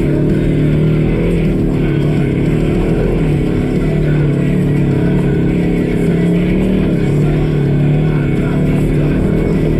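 Polaris RZR side-by-side engine running steadily under load as it drives, its pitch wavering a little with throttle, with guitar music playing over it.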